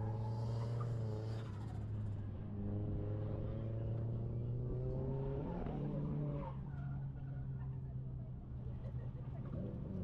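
Drift car's engine running at steady high revs; its note drops and shifts a little over halfway through.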